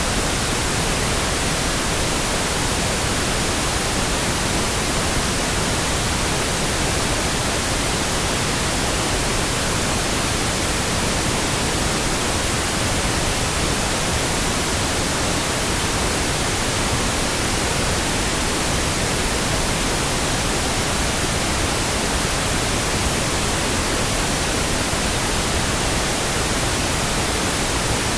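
Steady, unchanging synthetic noise with no tones, clicks or breaks, labelled as pink noise.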